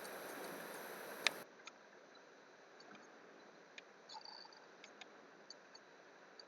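A steady hiss that stops about a second in, right after one sharp click; then faint, scattered single clicks, typical of a computer mouse being clicked.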